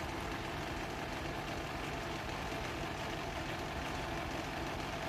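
A steady low mechanical rumble, like a running motor, with no distinct events.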